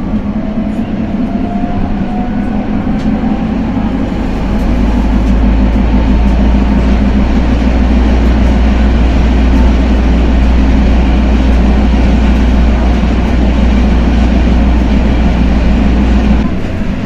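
Metre-gauge Tatra tram running at speed, heard from inside: a loud steady rumble and rattle of wheels on track. A faint motor whine rises in pitch over the first few seconds as it accelerates, and the low rumble drops off suddenly near the end.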